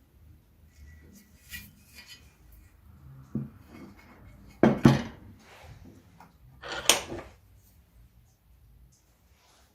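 Metal parts knocking and clinking as they are handled and set down: a few light clinks, a sharp double knock about five seconds in, and another loud clank about seven seconds in.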